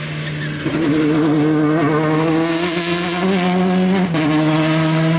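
Rally car engine running at high revs, getting louder about a second in, its pitch shifting in steps.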